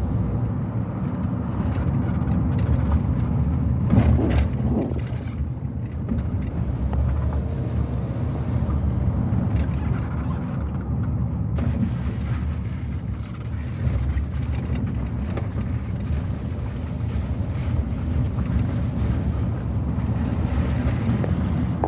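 Steady low rumble of a car on the move, with engine and road noise and some wind on the microphone.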